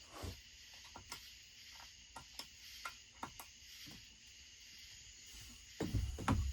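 Scattered light clicks and taps of tools and small parts being handled on a workbench, with a heavier clunk near the end, over a steady high chirring of crickets.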